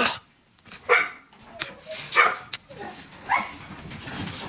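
Dog barking: three short barks, each falling in pitch, about a second apart, with a sharp click between the second and third.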